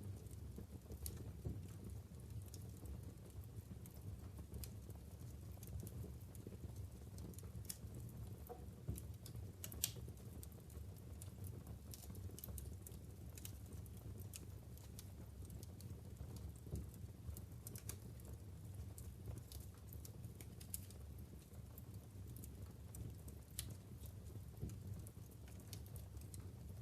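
Wood fire burning in a fireplace: logs crackling with irregular sharp pops and snaps over a low steady rumble of the flames, one louder pop near ten seconds in.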